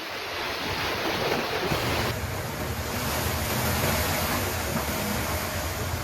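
Steady noise of a heavy rainstorm with wind buffeting the microphone. About two seconds in the sound changes abruptly, and a low rumble runs underneath from there on.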